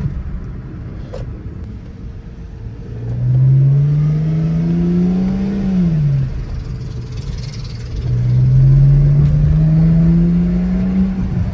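BMW 128i's inline-six engine and exhaust pulling hard under acceleration, the pitch climbing steadily. It drops sharply at a gear change about six seconds in, then climbs again in a second long pull.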